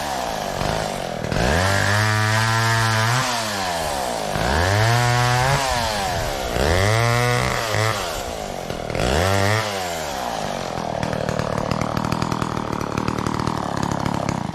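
McCulloch Mac 10-10 two-stroke chainsaw revving up and dropping back five times in a row, then idling, and stopping abruptly at the end.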